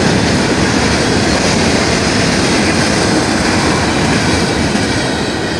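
Norfolk Southern freight train of open-top freight cars rolling past, a steady rumble and rattle of wheels on the rails. It eases off slightly near the end as the last cars go by.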